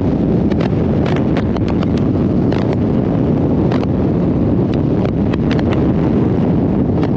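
Steady wind rush buffeting the microphone while riding a 2020 Harley-Davidson Road Glide Limited motorcycle at road speed, with the bike's running underneath. Short sharp pops from the wind hitting the mic come through all along.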